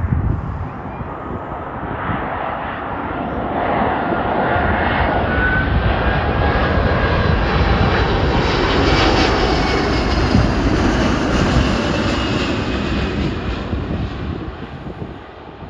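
Airbus A350-1000's Rolls-Royce Trent XWB-97 turbofan engines as the jet passes, a jet roar building to a peak about halfway through and fading away near the end.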